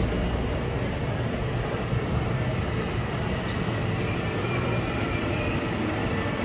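Street traffic: a motor vehicle's engine running close by with a steady low rumble over general street noise.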